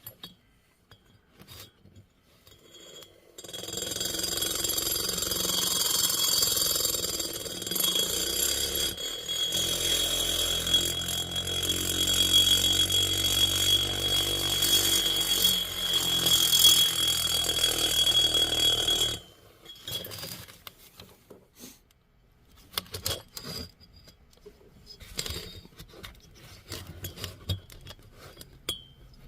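A rotary grinding tool running with a steady high whine, its bit grinding a bevel into the aluminium exhaust port of a Stihl MS460 chainsaw cylinder. It starts about three seconds in and cuts off after about fifteen seconds, followed by light clicks of handling.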